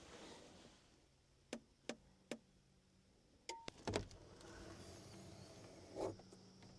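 Faint, sharp clicks, three in a row, then a short beep and a cluster of louder knocks and clatter about midway, and one more knock near the end, over a faint steady electrical hum.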